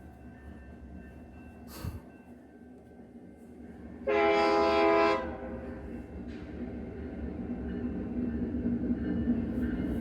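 Locomotive air horn sounding one blast of about a second, about four seconds in, over the low rumble of the train, which grows steadily louder as it approaches. A brief click comes shortly before the horn.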